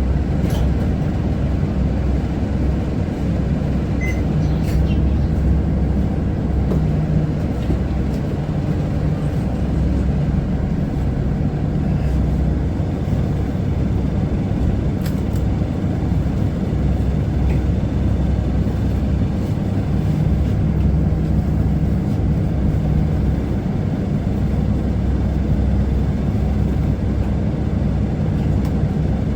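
Isuzu Erga city bus driving along, heard from inside the passenger cabin: a steady engine drone and road rumble, with a low hum that comes and goes a few times.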